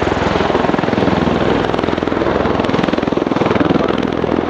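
Bell Boeing CV-22B Osprey tiltrotor hovering with its rotors in helicopter mode: a loud, steady rapid pulse of rotor beat over the roar of its turboshaft engines.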